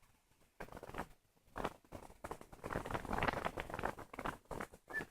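Wind buffeting the microphone in irregular gusts that cut in and out, growing stronger toward the end.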